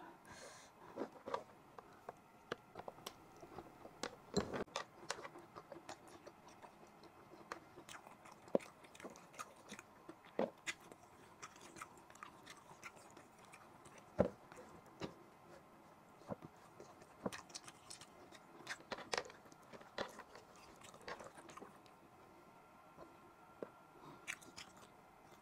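Close-miked chewing of beef and rice, with irregular wet mouth clicks and smacks.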